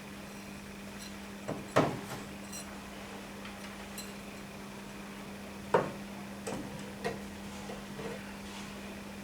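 A few sharp knocks and clinks of hard objects, two louder ones about four seconds apart, each followed by smaller taps, over a steady low hum.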